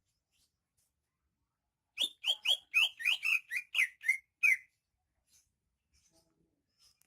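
Cucak ijo (greater green leafbird) singing a quick run of about ten sharp, downslurred whistled notes lasting a little over two seconds, starting about two seconds in.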